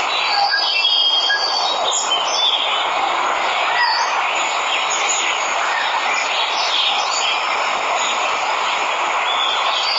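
Steady rush of falling water with birds chirping and calling over it at scattered moments.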